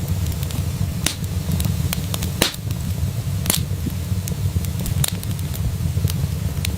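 Wood fire in a fireplace crackling, with sharp pops scattered every second or so (the loudest two about halfway through) over a steady low rumble.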